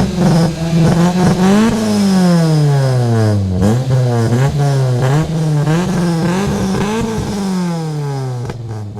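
Suzuki Baleno 1.6's four-cylinder petrol engine revving up and down repeatedly through a modified aftermarket stage 1 exhaust, the pitch climbing quickly and sinking back several times before dying away near the end.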